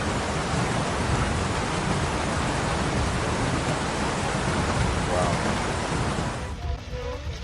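Loud, steady rush of flash-flood water pouring through a street, cutting off abruptly about six and a half seconds in.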